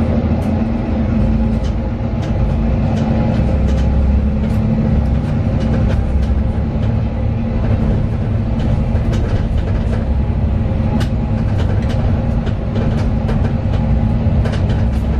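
Mercedes-Benz Citaro 2 city bus under way, heard from inside the cabin: the OM 936 inline-six diesel engine and drivetrain running at a steady speed, a low rumble with a constant hum. Scattered light clicks and rattles are heard throughout.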